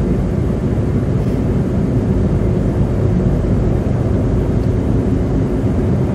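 Steady low rumble of car tyres and road noise heard inside the cabin while driving through slush on an icy road; pretty loud in the slush.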